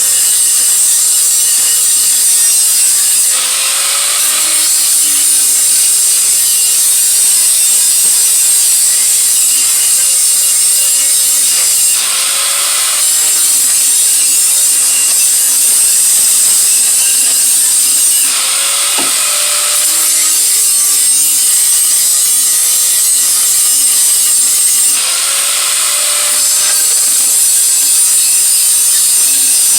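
Handheld power tool grinding metal continuously. It eases off the work briefly about four times, with a short shift in the motor's pitch each time.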